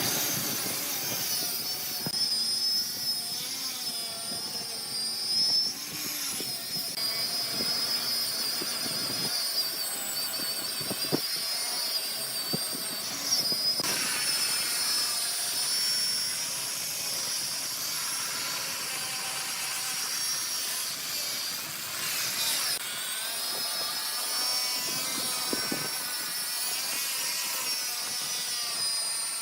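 Wood lathe turning a workpiece while a cutting tool scrapes across the spinning wood: a steady hiss of cutting with a high whine that wavers slightly in pitch, and a few short, louder scrapes.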